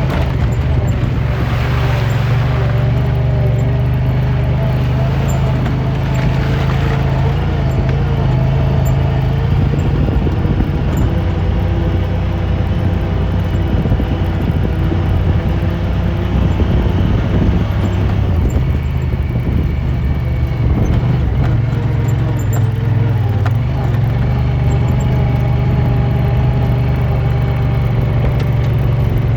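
Side-by-side UTV engine running while driving, a loud steady low drone that eases and picks up again a couple of times.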